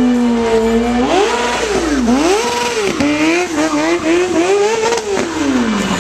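Stunt sport motorcycle's engine held at steady revs, then revved up and down repeatedly from about a second in as it is ridden through stunts, the revs dropping near the end.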